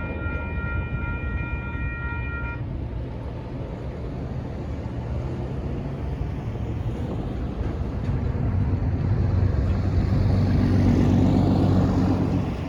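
Union Pacific freight train rolling past with a steady low rumble; a steady pitched tone cuts off about two and a half seconds in. A diesel locomotive's engine drone builds and is loudest near the end, likely a mid-train or rear pushing unit going by.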